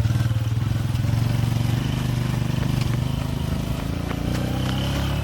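Vehicle engine running while under way, its pitch easing slightly about a second in, then steady.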